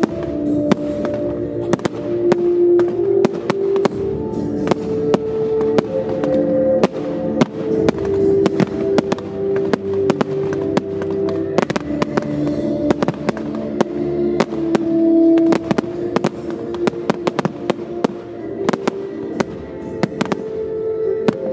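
Aerial firework shells bursting in a rapid series of sharp bangs and cracks, several a second, over music with long held melodic notes playing throughout.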